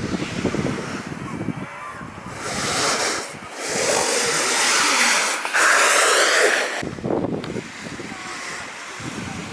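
Wind rushing over the microphone while riding an alpine snowboard, with a long hissing surge of the board's edge carving across snow in the middle.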